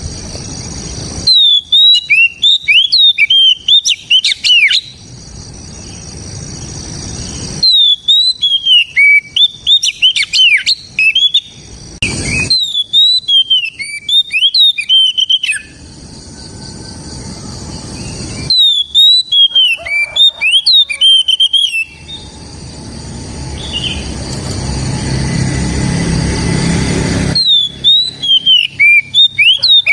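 Oriental magpie-robin (kacer) singing in full, vigorous song: five bursts of rapid, sliding whistled notes, each lasting about three seconds, with short pauses between them. A low background hiss swells in the pauses.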